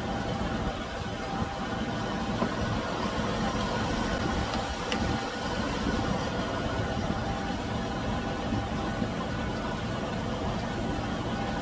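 A 1998 Chevy Venture's 3.4-litre V6 idling steadily while the cooling system is refilled with antifreeze and bled after a thermostat replacement. A single light click about five seconds in.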